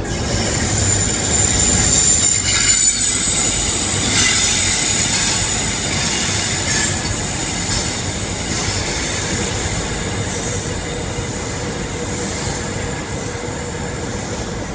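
High-speed diesel train (HST power car) running into the platform, with a high squeal from its wheels over the rumble for the first three seconds or so. Then a CrossCountry Voyager diesel multiple unit at the platform, giving a steady rumble of engine and wheels.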